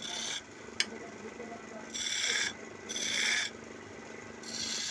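Wood lathe running with a steady hum while a tool scrapes the spinning wood in hissing strokes, about four of them, each lasting roughly half a second. A single sharp click comes just under a second in.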